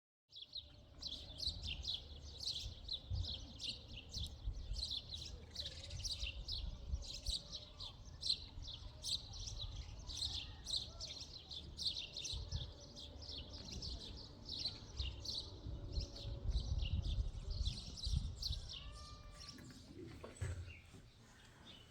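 Many small birds chirping rapidly and continuously, over a low rumble.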